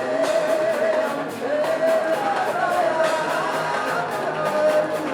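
Worship song: a voice singing long, wavering held notes over a band with a steady beat.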